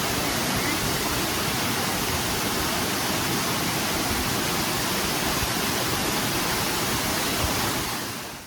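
Waterfall rushing, a steady, loud, even noise that fades out near the end.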